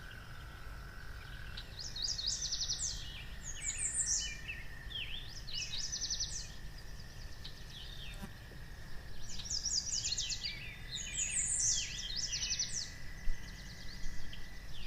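Forest ambience of birds chirping in repeated quick trills, over a steady faint high tone and a low rumble.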